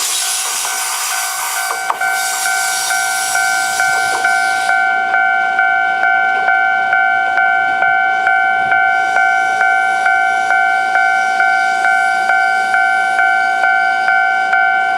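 A Kintetsu 15200-series electric train runs over a level crossing, its wheel and track noise cutting off about five seconds in. Throughout, the crossing's electronic warning bell keeps ringing at an even pace of about two dings a second.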